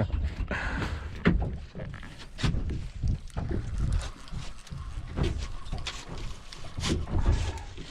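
Irregular knocks and bumps aboard a small fishing boat, over a low steady rumble of the boat and water.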